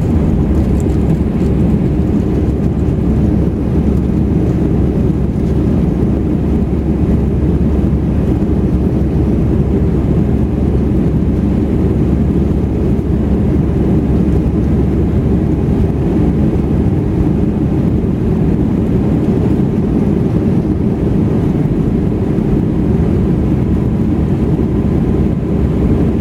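Airbus A319 jet engines and rushing air heard inside the passenger cabin during the take-off run and climb: a steady, loud, deep roar that holds even throughout.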